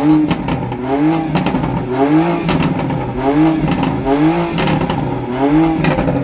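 A car engine blipped repeatedly, about once a second, its pitch rising and falling with each rev, with sharp exhaust cracks in between.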